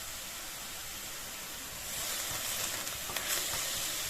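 Chopped onions sizzling in hot peanut oil in a pan as they are sautéed, the hiss growing louder about halfway through, with a few light ticks.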